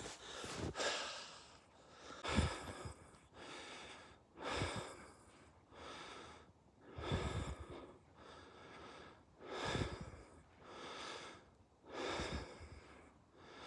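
A man breathing heavily, breaths in and out alternating about once a second.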